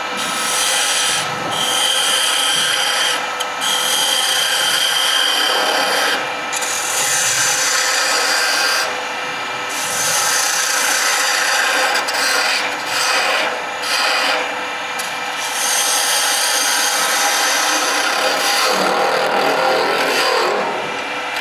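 A turning tool cutting a spinning beech blank on a wood lathe, a steady rasping hiss of shavings coming off. Several short breaks come where the tool lifts off the wood, and the lathe's motor keeps up a faint steady hum underneath.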